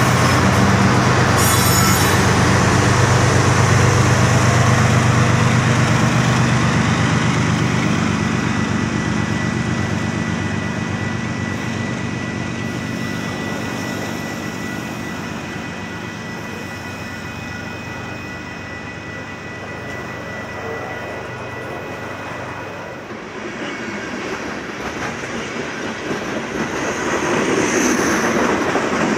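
Union Pacific freight train passing close by. At first the GE diesel locomotives' engines run with a deep drone. Then boxcars roll past with steady wheel rumble and a thin, steady wheel squeal on the curve, and near the end another locomotive comes by, getting louder.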